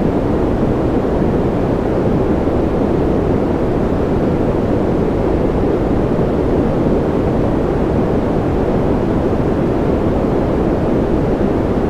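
Continuous white-noise sleep track: a loud, even rushing hiss that never changes, deeper and duller than a bright hiss, with most of its weight low down.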